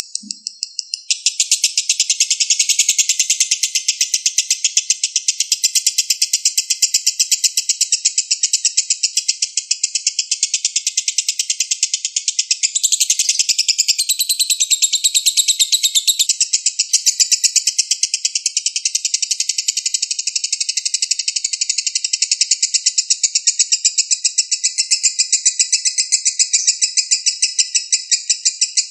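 Lovebird's long ngekek: a continuous, very rapid chattering trill of high, shrill notes, kept up without a pause from about a second in. This is the long-duration trill that lovebird keepers prize and play to their birds as a master.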